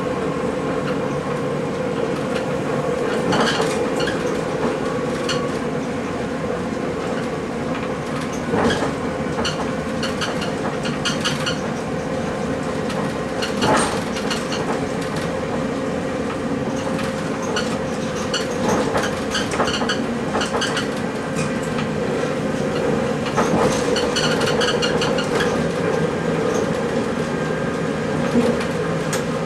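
Passenger train running steadily, heard from inside the driver's cab: a continuous drive hum with wheel-and-rail noise, and clicks of the wheels over rail joints every few seconds, some coming in quick clusters.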